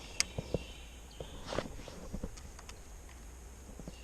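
Scattered light knocks and rustles of a person's footsteps and handling along a creek bank, over a faint steady outdoor rumble.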